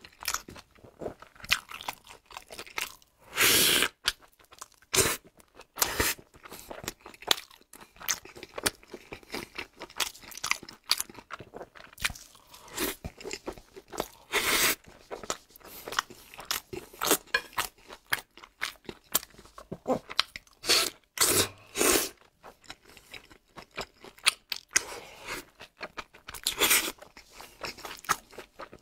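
Close-up eating sounds: a person biting and chewing a crisp pan-fried bun, with irregular crunches and several louder crunchy bites along the way.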